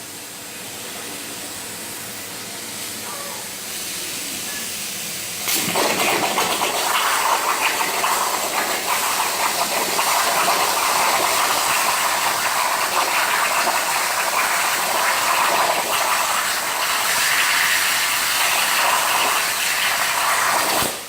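CNC plasma cutter: a softer hiss, then about five seconds in the plasma arc strikes and a loud, steady hiss runs for about fifteen seconds before stopping suddenly near the end.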